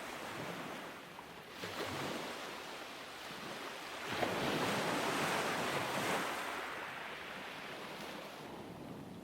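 Ocean waves breaking on a beach, in a steady rushing wash: a smaller wave swells about a second and a half in, and a larger one breaks about four seconds in, then slowly washes out. A little wind noise on the microphone.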